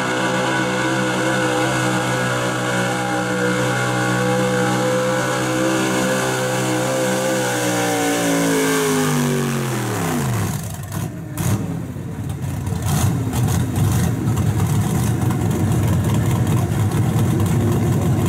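Super Street Gas 4x4 pulling truck's gasoline engine held at high revs, then dropping in pitch over about two seconds as the throttle is let off, after which it runs rough and lumpy at low speed.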